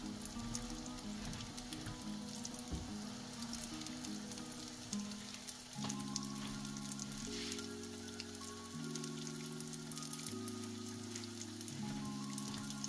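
Yeast-dough pirozhki frying in hot vegetable oil in a frying pan, a steady sizzle with fine crackling. Soft background music plays underneath.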